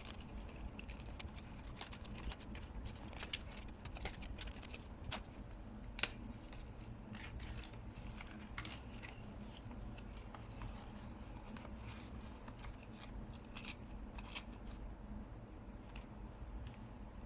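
Scissors snipping paper in a run of short cuts, busier in the first half, with paper being handled and one sharper click about six seconds in.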